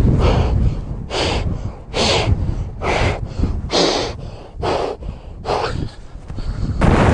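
A person breathing hard close to the microphone: about seven loud, regular breaths, roughly one a second, over a low rumble of wind on the microphone. Near the end the wind noise on the microphone suddenly gets much louder.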